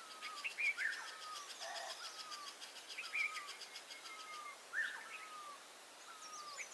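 Birds calling: a short whistled note sliding down in pitch, repeated about every second and a half, with a fast high trill through the first half and scattered sharp chirps.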